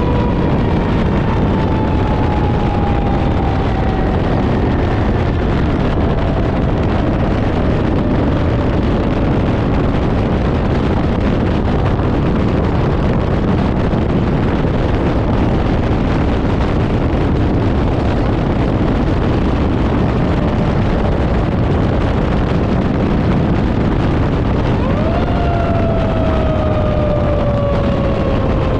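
Fire engine driving, its engine and road noise a loud, steady rumble. A siren tone falls slowly over the first few seconds, then sweeps up sharply about 25 seconds in and slowly falls again.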